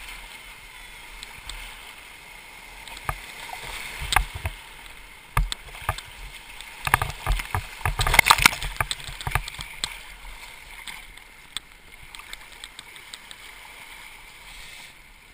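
River rapids rushing, with irregular splashes and knocks in the water, busiest about seven to nine seconds in.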